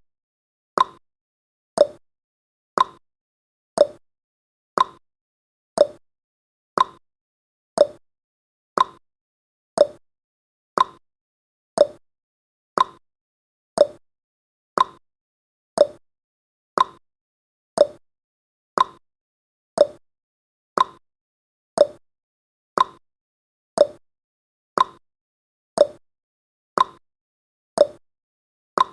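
Ticking sound effect of a countdown timer: one short tick each second, alternating between a higher and a lower pitch like a clock's tick-tock.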